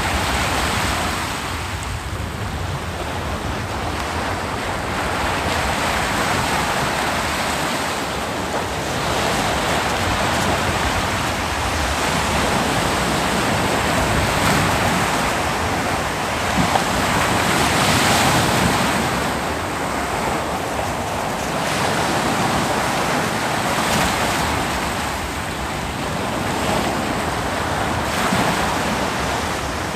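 Ocean waves breaking on a beach, a continuous rushing surf that swells and eases every few seconds.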